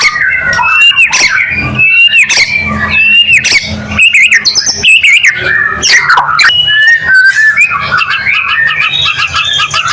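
White-rumped shama (murai batu) singing loudly: a run of repeated arching whistled notes, about one every three-quarters of a second, then a fast jumble of varied chattering notes and clicks.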